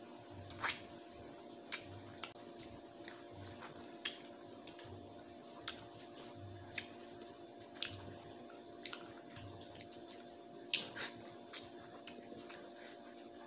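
Wet mouth sounds of eating juicy orange segments close to the microphone: scattered sharp smacks, sucks and squelches at irregular intervals, over a steady low hum.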